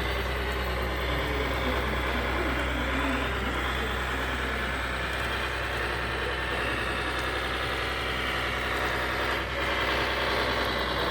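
Radio-controlled model construction trucks running, giving a steady engine sound with whirring mechanical noise.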